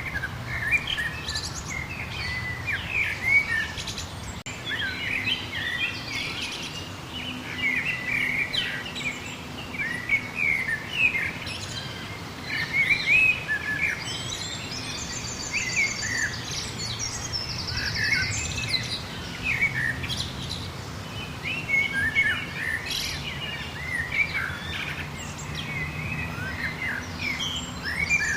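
A chorus of many songbirds chirping and singing at once, with short sweeping notes overlapping throughout and a fast, high trill around the middle, over a faint low steady hum.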